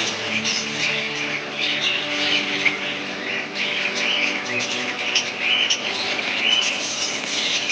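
Budgerigars chirping and chattering continuously, many high chirps overlapping.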